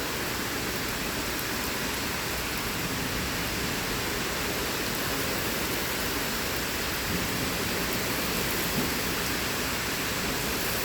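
Heavy thunderstorm rain pouring down steadily, an even, dense hiss.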